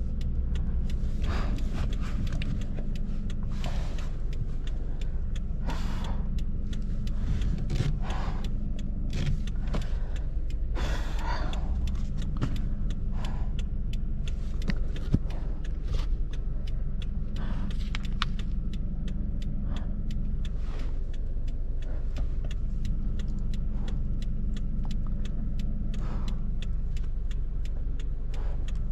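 Car driving with a steady low rumble that keeps an even pitch, and many light clicks and knocks scattered through it.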